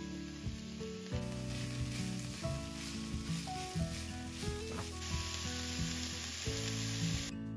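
Sliced mushrooms and chopped onions sizzling in a hot frying pan as they are stirred with a wooden spatula. The sizzle stops shortly before the end, over steady soft background music.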